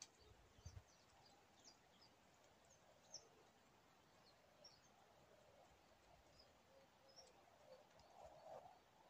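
Faint outdoor background with scattered short, high chirps of small birds calling in the distance, and a couple of soft low thumps about half a second in.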